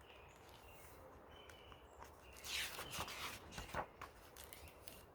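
Soft rustling and a few light clicks about two and a half seconds in, lasting about a second and a half, over a faint background with thin high chirps.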